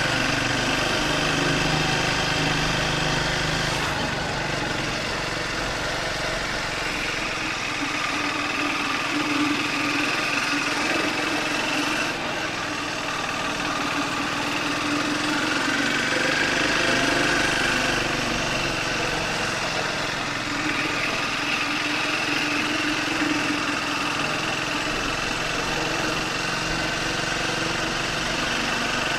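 Triumph Speed 400's single-cylinder engine running steadily under way, its pitch drifting gently up and down with speed.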